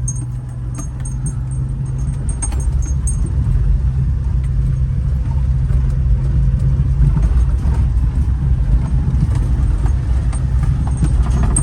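Honda mini truck's small engine running steadily as the truck drives over rough ground, growing a little louder over the first few seconds. Light rattles and clicks from the truck over the first few seconds.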